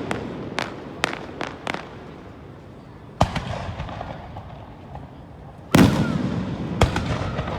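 Aerial fireworks shells bursting overhead in a series of sharp bangs. There are several quick ones in the first two seconds and a loud one a little after three seconds. The loudest, near six seconds, carries a long low rumble, and another follows a second later.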